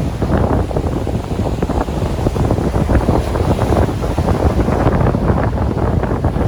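Strong wind buffeting the microphone: a loud, dense rumbling flutter.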